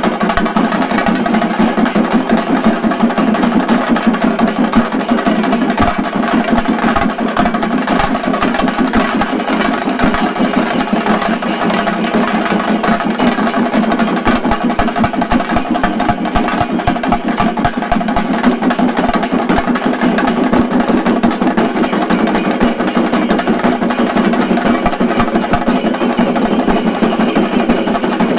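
Shinkari melam: a troupe of chenda drums beaten in fast, dense, unbroken strokes.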